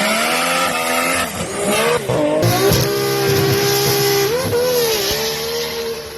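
High-horsepower big-turbo Nissan Skyline R34 GT-R engine running hard. Its pitch climbs, drops sharply and climbs again several times.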